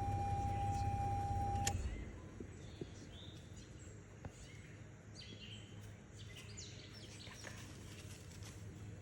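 A steady hum with a single held tone, cutting off suddenly about two seconds in. Then quieter outdoor background with small birds chirping on and off in short, high calls.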